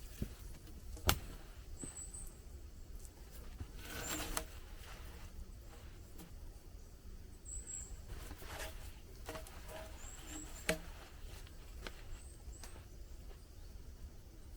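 Wet wooden poles and logs knocking and scraping as they are handled and pulled apart. There is one sharp knock about a second in, a short rustling scrape around the middle, and another knock later. Short, high bird chirps come now and then.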